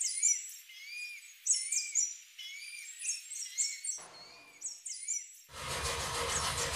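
Birds chirping: a repeated arched call note comes about every half second, with quicker high-pitched chirps above it. About five and a half seconds in, a steady background hiss comes in under the birdsong.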